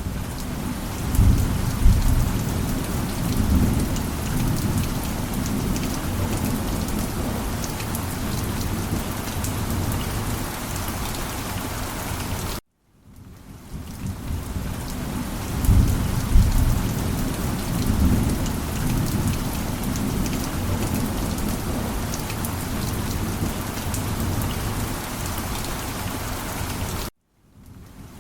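Steady heavy rain with a low rumble of thunder a second or two in, and again about 16 s in. The sound cuts out abruptly for a moment about halfway and again near the end, where a short rain-and-thunder loop restarts.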